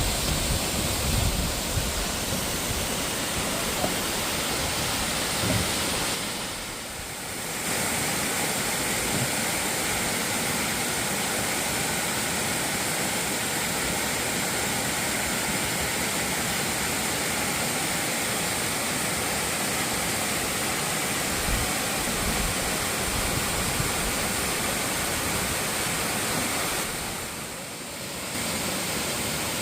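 A waterfall's falling water rushing steadily, dipping briefly in level twice, about seven seconds in and near the end.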